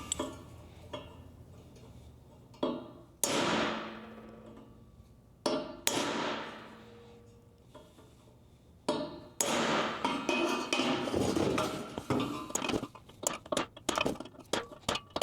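Hammer striking a punch against a steel reel shaft: three pairs of sharp metal blows, each ringing out for a second or two, then a quicker run of lighter taps near the end. The punch marks raise the metal of the worn shaft so a bearing will sit tight on it.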